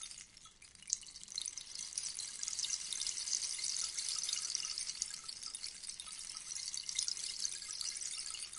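Rainstick: small pellets trickling down through the tube in a dense, fine pattering like rain. The cascade thins briefly just after the start, then picks up again and runs on evenly.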